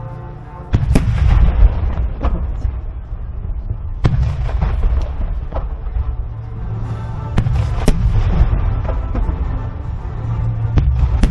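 Large aerial firework shells from a starmine barrage, including 30 cm shakudama shells, bursting in a run of sharp, deep booms. The first boom comes about a second in and the others follow irregularly, with rolling echo between them. Music plays underneath.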